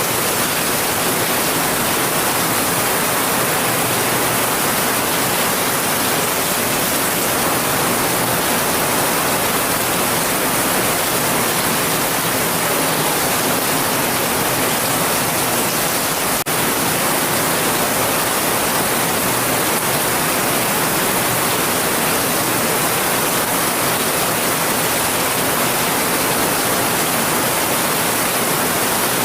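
Heavy rain falling steadily as an even hiss, with one brief click a little past halfway.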